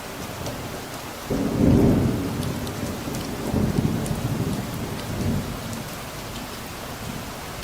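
Steady rain falling, with a roll of thunder that breaks in suddenly about a second in. The thunder rumbles low in a few waves and dies away over several seconds.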